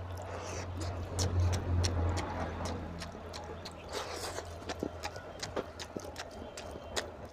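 Close-up wet chewing and lip-smacking of a man eating oily mutton curry and rice by hand, heard as many sharp, irregular mouth clicks. A low steady hum runs underneath.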